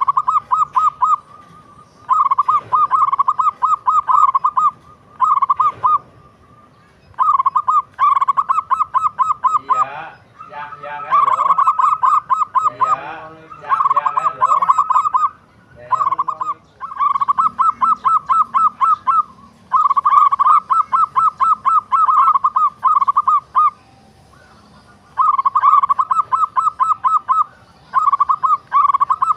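Zebra dove (perkutut) singing: repeated runs of quick staccato cooing notes, each run a second or two long, with short pauses between them.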